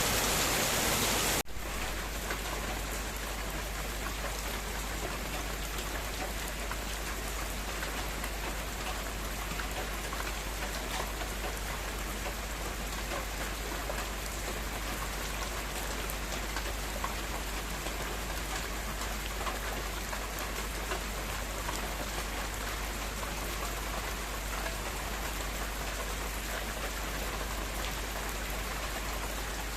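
Heavy rain falling steadily, an even, dense hiss of drops on surfaces. About a second and a half in, a louder, different noise cuts off abruptly and the rain alone carries on.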